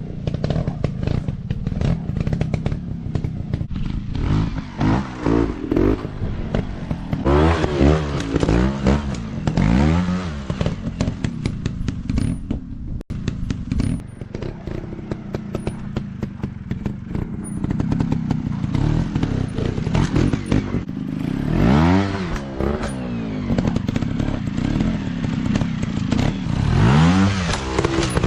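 Dirt bike engines running and revving up and down repeatedly, their pitch rising and falling in several long swells, over a steady low rumble with scattered clattering.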